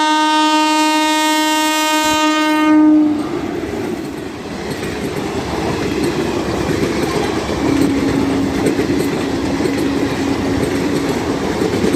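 Indian Railways train passing at speed: a long, loud locomotive horn blast that cuts off about three seconds in, then the steady rush and rumble of wheels on rail as the coaches go by, with a second, quieter horn blast from about halfway through.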